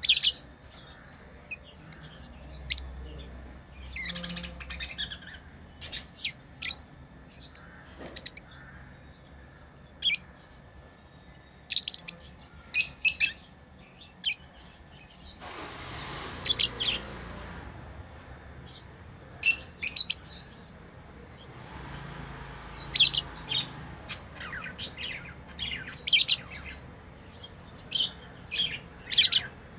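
Pet lovebirds chirping: many short, sharp, high-pitched chirps at irregular intervals, with a couple of stretches of soft rustling noise between them.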